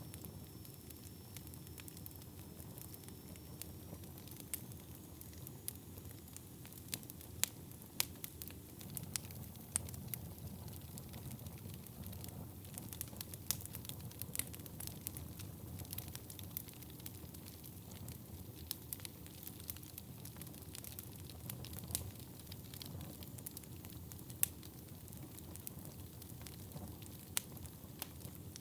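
Wood fire burning in a fireplace: a steady low rumble of flames with irregular crackles and sharp pops of the burning wood, a few pops much louder than the rest.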